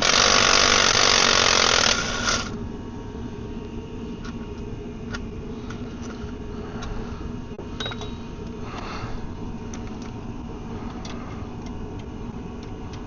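A power tool runs for about two seconds, spinning out a gearbox bolt, and then stops, followed by scattered light clicks of tools and metal being handled.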